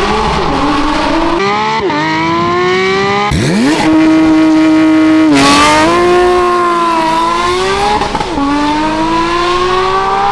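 Porsche 992 GT3 RS's 4.0-litre naturally aspirated flat-six through a full titanium valved exhaust, revving high under hard acceleration. Its pitch climbs steadily and drops sharply about four times at the upshifts.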